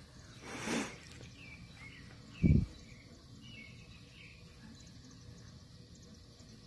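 Faint bird chirps over outdoor ambience. A short breathy whoosh comes about half a second in, and a brief low thump, the loudest sound, comes about two and a half seconds in.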